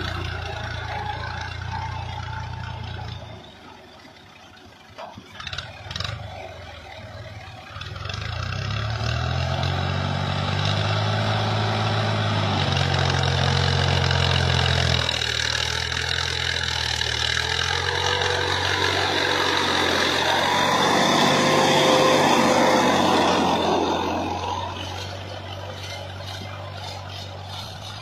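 Tractor engine running. It drops away about three seconds in, a few sharp knocks follow, then the engine picks up again and runs louder with its pitch shifting up and down before easing off near the end.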